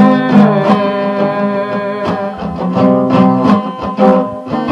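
Instrumental break in a song: acoustic guitar playing chords between sung lines, with regular strums or picked notes.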